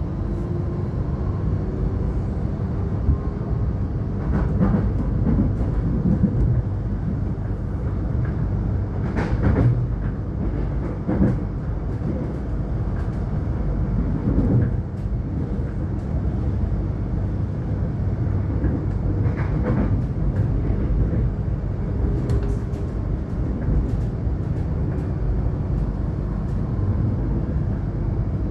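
Suburban electric train running between stations, heard from on board: a steady rumble of wheels on the track with a handful of sharp knocks over rail joints, and a faint gliding whine near the start and again near the end.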